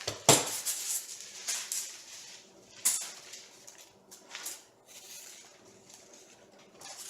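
Parts and packaging being handled: a sharp knock just after the start, then bouts of rustling and light clatter with quieter gaps between.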